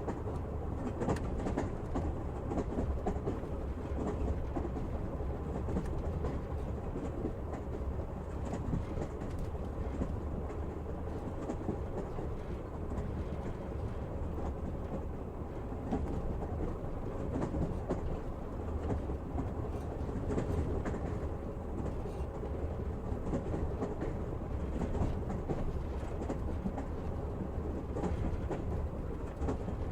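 Train running along the track: a steady low rumble of the wheels on the rails, with the clatter of the wheels over rail joints now and then.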